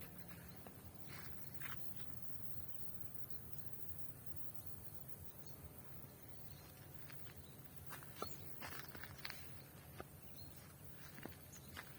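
Quiet forest ambience: a faint steady low rumble with scattered soft clicks and brief high ticks, a cluster of them about eight to ten seconds in.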